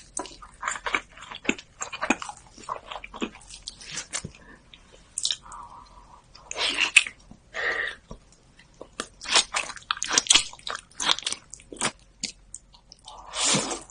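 Close-miked eating sounds: irregular bites, chewing and wet mouth clicks, with a few longer noisy bursts.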